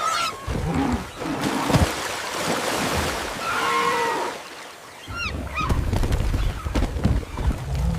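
Animal commotion: short, high, wavering cries from macaques over a rough rushing noise and a low rumble.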